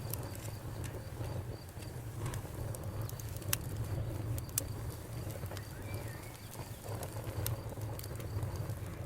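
Wood campfire crackling: irregular small snaps with a few sharper pops, over a steady low rumble.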